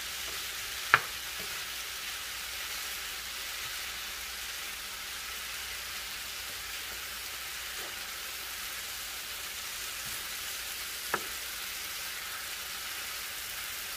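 Chicken fajita strips, bell peppers and onion sizzling in a nonstick skillet, a steady hiss, while a wooden spatula stirs them. Two sharp knocks of the spatula on the pan, the louder about a second in and another about ten seconds later.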